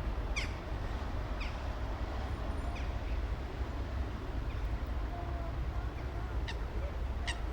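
Steady low rumble of city traffic, with short, high, downward-sweeping bird chirps every second or two over it.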